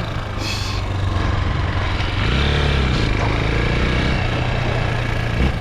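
Chinese 250cc dirt bike engine running steadily, revving up and easing back down twice around the middle.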